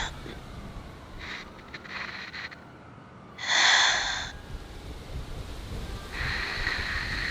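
A person breathing slowly and audibly close to the microphone, as in sleep: a louder breath about three and a half seconds in and another starting near the end.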